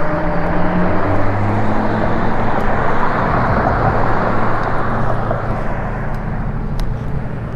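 Road traffic heard from a moving e-bike: a motor vehicle passing close, its noise swelling in the middle and easing off, over wind rushing on the microphone.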